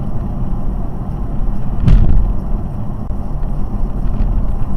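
Heavy low rumble of a car driving, as picked up by a dashcam, with a single sharp knock about two seconds in.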